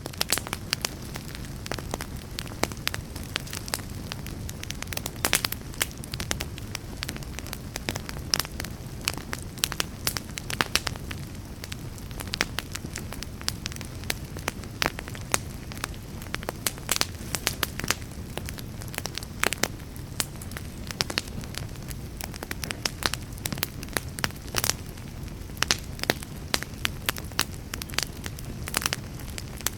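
Fire in a fireplace crackling steadily, with sharp pops several times a second over a low, steady rumble of flame.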